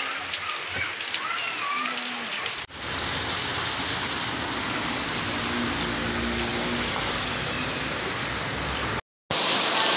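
Heavy rain falling and splashing on streets and roofs, a steady hiss. About two and a half seconds in it cuts to a denser downpour, and near the end there is a brief dropout before louder rain.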